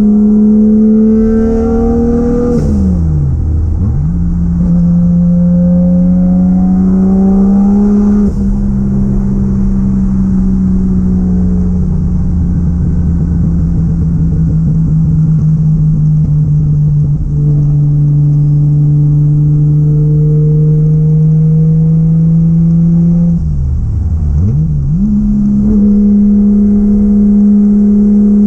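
Turbocharged 1JZ-GTE VVT-i straight-six in a Nissan 240SX under way: the engine climbs in pitch, drops sharply at a gear change about two and a half seconds in, pulls up again, then holds a long steady drone that slowly falls. Near the end the revs dip briefly and come back up.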